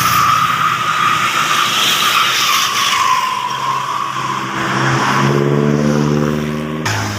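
Heavy truck's brakes squealing in a steady high tone that dips slightly about three seconds in, as it rolls slowly down a steep grade. A diesel engine's note builds underneath in the second half, and the sound breaks off suddenly near the end.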